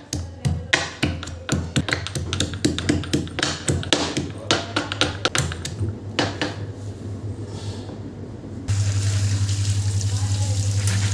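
Knife chopping on a cutting board in quick, irregular strokes. About nine seconds in, an electric appliance's motor switches on and runs with a steady, loud whir and hum.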